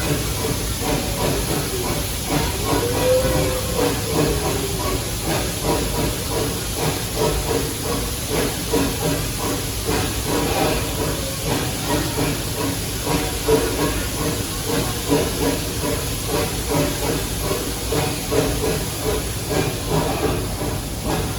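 Narrow-gauge park train running along its track, heard from a passenger car: a steady rumble with a fast, irregular clatter of wheels and cars. A short wavering squeal comes in the first few seconds.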